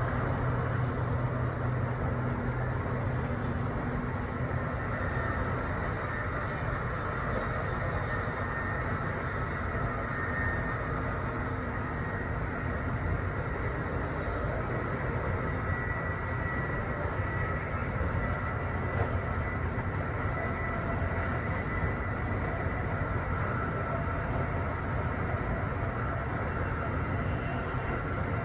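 Amtrak Northeast Regional electric train running at speed, heard on board: a steady rolling noise of wheels on rail, with a faint high tone that comes and goes.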